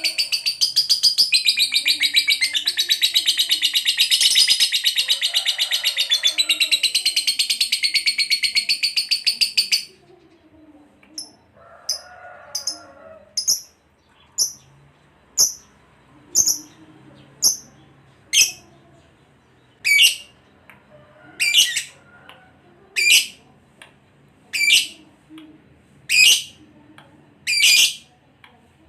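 Lovebird giving a long, loud, rapid high-pitched chattering trill for about ten seconds. It then breaks off into single short, sharp chirps roughly once a second or so, which grow louder toward the end.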